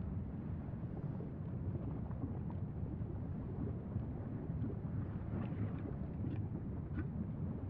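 Steady low rumble of wind buffeting the microphone, with a few faint short higher sounds in the second half.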